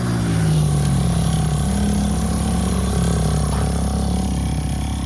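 Dirt bike engine running and revving, its pitch rising and falling as the throttle opens and closes.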